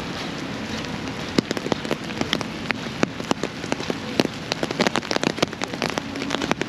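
Rain falling, with many sharp, irregular ticks of raindrops striking close to the microphone over a steady hiss. The ticks grow dense about a second and a half in.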